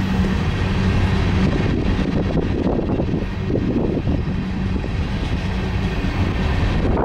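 Freight train cars rolling past close by: a steady rumble of steel wheels on the rails with irregular rattling, over a low steady hum.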